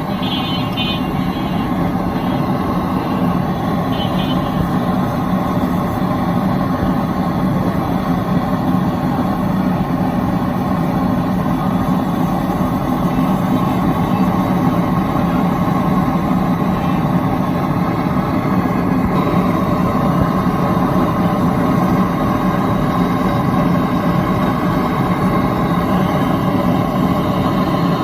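A motor running steadily at a constant speed, a loud even drone with a hum that does not change.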